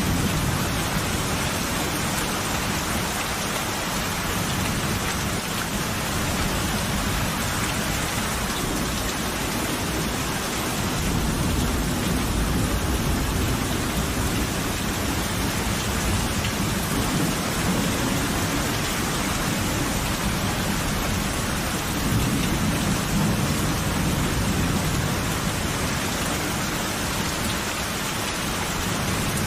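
Steady heavy rain with rolling thunder, the low rumbles swelling and fading several times.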